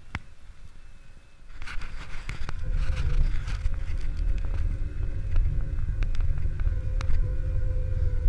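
Haibike electric mountain bike ridden over a forest trail. A heavy low rumble of wind and rough ground sets in about a second and a half in, with sharp clicks and rattles from the bike and trail throughout. Over it runs a faint steady whine from the Bosch mid-drive motor.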